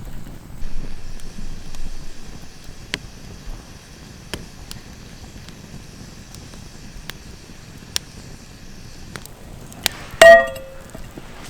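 A few sparse light clicks, then a single loud ringing metal clank about ten seconds in that dies away within half a second.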